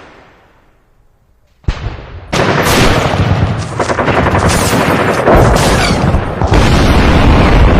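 Gunfire: after a near-quiet pause, a sharp shot comes just under two seconds in, then dense rapid machine-gun fire.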